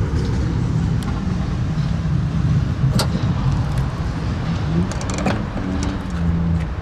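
Fuel cap and fuel filler door of a car being handled: sharp clicks, one about a second in, a louder one at about three seconds and a cluster around five seconds, over a steady low rumble.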